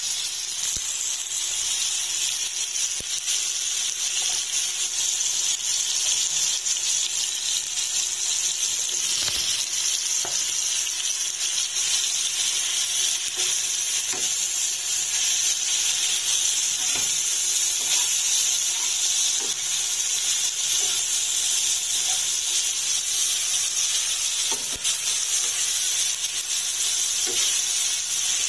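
Sliced eggplant, onion and tomato sizzling in oil on a flat tawa griddle: a steady frying hiss, with a few faint clicks now and then.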